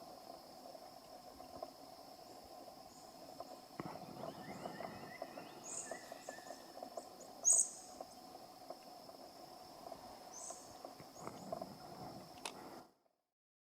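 Short, high bird chirps and a few brief whistled glides over a steady high hum, with scattered clicks and rustles. The sound cuts off suddenly near the end.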